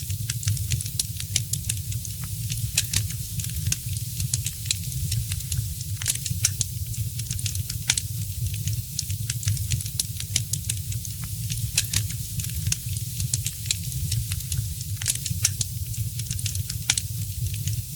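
Wood fire in a fireplace crackling, with many quick irregular pops over a steady low rumble.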